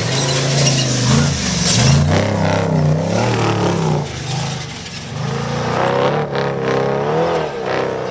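Off-road race vehicle's engine revving up and down repeatedly, its pitch rising and falling several times as it goes past over rough desert course, then fading away.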